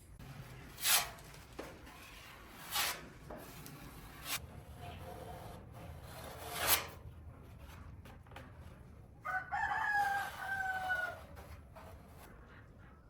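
A rooster crows once near the end, a single call of about two seconds that falls slightly in pitch. Earlier come four short, sharp noisy strokes.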